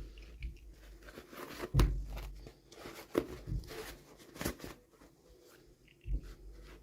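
Hands unboxing miniature toys: packaging crinkling and tearing, with a few sharp clicks and scrapes, the loudest about two seconds in.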